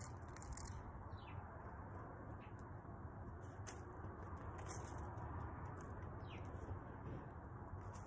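Scrub-jays foraging: a few short, faint, high chirps that slide downward, soft rustles and ticks, and a brief flutter of wings near the end, over a steady low background hum.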